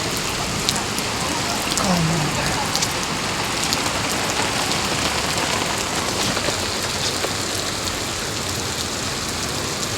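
Heavy rain falling steadily, with scattered sharp ticks of individual drops.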